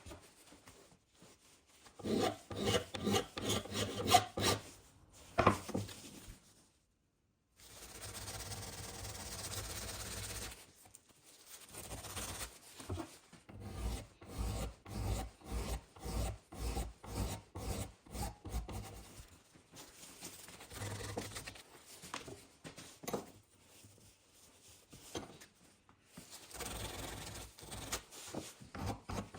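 Hand abrasive work: repeated rubbing and rasping strokes, like filing or sanding, in several separate stretches, with one steadier stretch of rubbing noise.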